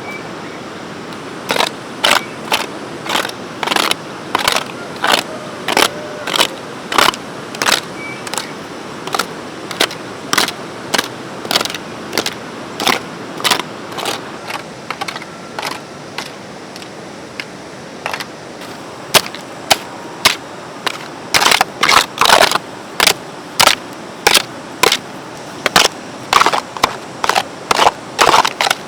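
Repeated sharp striking blows, about two a second, thinning out in the middle and coming quicker and denser near the end.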